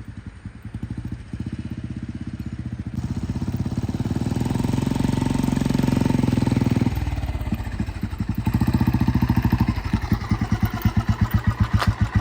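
Royal Enfield Electra single-cylinder motorcycle engine running with a steady pulsing exhaust beat and good bass. It builds up, changes abruptly about seven seconds in, then picks up again with strong, even thumps.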